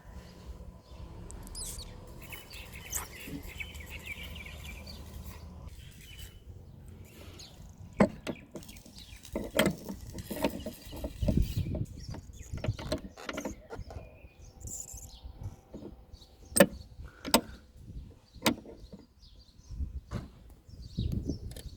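Scattered sharp knocks and clicks of hand work on truck body parts, a few of them loud. A steady low background noise fills the first few seconds before the knocks begin.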